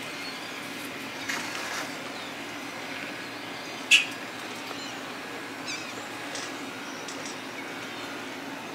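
Birds calling over steady outdoor background noise, with one loud, short high call about four seconds in and a few fainter chirps after it.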